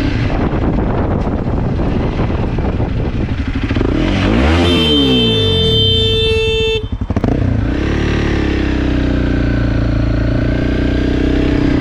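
Motorcycle engine running at road speed. About four and a half seconds in, a horn sounds steadily for about two seconds and cuts off suddenly, a warning at a close call with an oncoming car in the wrong lane.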